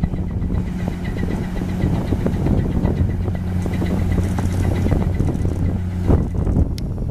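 Engine running with a steady low drone under rough, gusty noise; the drone stops about six seconds in.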